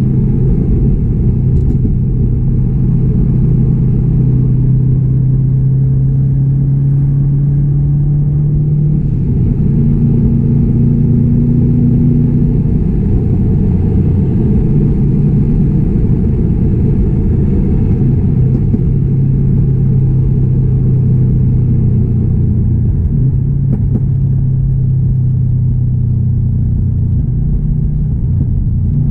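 2016 Subaru WRX STI's turbocharged 2.5-litre flat-four engine and exhaust droning steadily while driving, with the low rumble shifting pitch about nine seconds in and again a little past twenty seconds.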